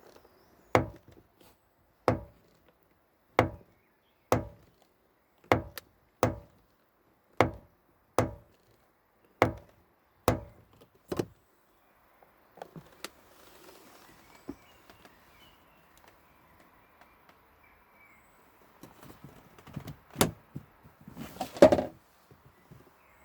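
Repeated sharp knocks on a car door, about one a second for some eleven seconds, then a quieter stretch and two louder knocks near the end, the last one the loudest.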